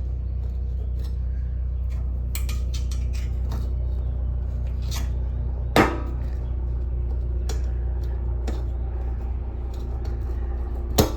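Small metal generator fuel-system parts handled by hand: scattered light clicks and scrapes, with two sharper knocks about six seconds in and near the end, over a steady low hum.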